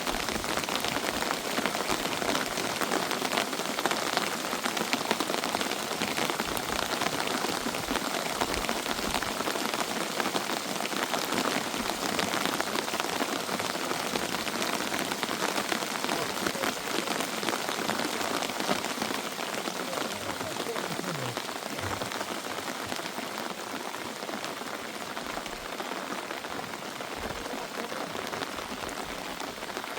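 Heavy rain falling steadily on a surface, a dense patter of many drops, easing a little in the second half.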